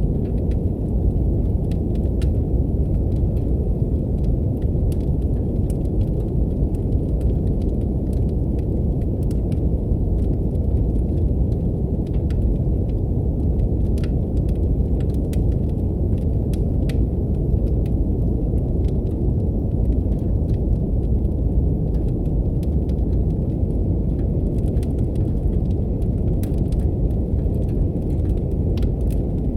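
Steady deep brown noise, with a wood fire crackling over it in scattered, irregular pops and snaps.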